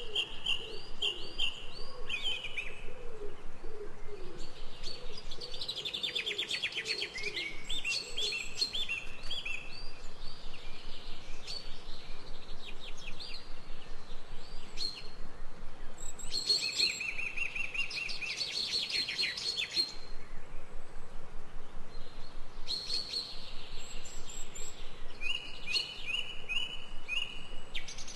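Several wild birds singing in a forest chorus: runs of repeated short whistled notes and fast trills, overlapping and trading off throughout. A lower, repeated call sounds beneath them during the first several seconds.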